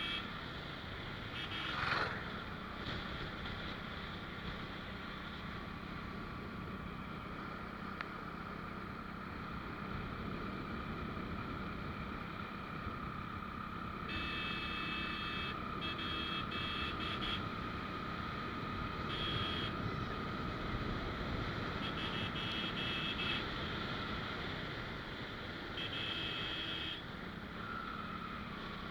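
Steady road and engine noise of a moving motorcycle, with several short bursts of rapid high beeping in the second half.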